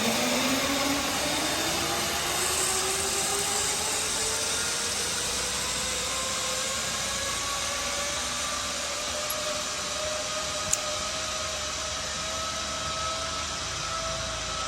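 Zipline trolley pulleys running along the steel cable, a whine that slowly rises in pitch as the rider picks up speed, over a steady rush of wind. One sharp click about two-thirds of the way through.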